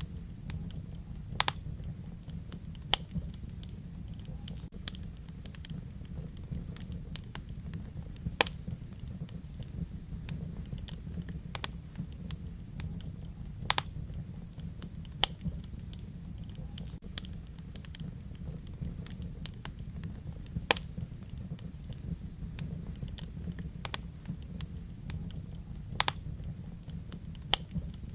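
Wood fire in a fireplace burning with a steady low rumble and irregular sharp crackles and pops every second or two, a few louder than the rest.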